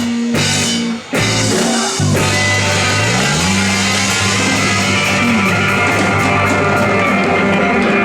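Live rock and roll band playing, with electric guitar, bass and drums. The music breaks off for an instant about a second in, comes back, and the bass slides upward into a long held chord.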